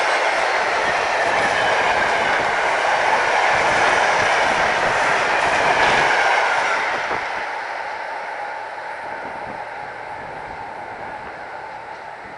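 An electric train passes at speed, its wheels running loudly on the rails. After about seven seconds the sound fades steadily away as the train recedes.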